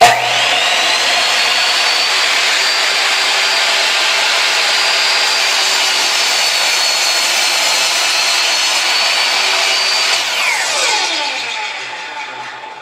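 Ryobi 10-inch sliding compound miter saw starting with a jolt and running at full speed with a steady high whine, making a chop cut into a wide wooden test board. About ten seconds in it is switched off, and the whine falls away as the blade spins down.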